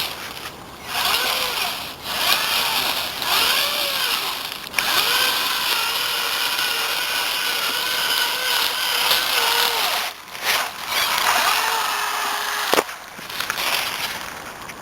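Electric drive motor and gearbox of a homemade radio-controlled trial truck whining, the pitch swelling and falling with the throttle in short bursts, then holding fairly steady, with a couple of brief stops and a sharp click near the end.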